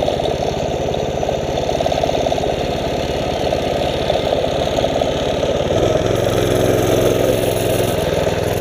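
Mini bike's small engine running as it is ridden, a steady dense firing pulse; about six seconds in its note changes to a steadier, more even pitch.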